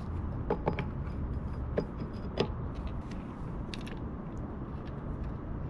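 Metal engine parts clinking as they are handled and fitted, likely clutch parts going onto a pit bike engine: four sharp metallic clicks with a short ring in the first two and a half seconds, then fainter ticks, over a steady low background rumble.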